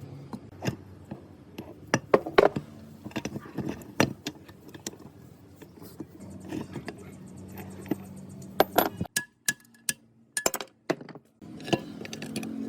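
Metal parts and hand tools clinking and knocking against each other in irregular sharp taps, over a low steady hum. The sound drops out briefly a few times in the second half.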